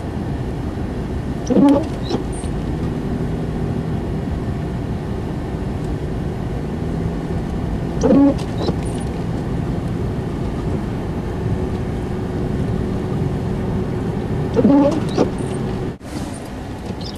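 Car driving in snow, heard from inside the cabin: a steady rumble of engine and road noise. A short squeak comes about every six and a half seconds, three times.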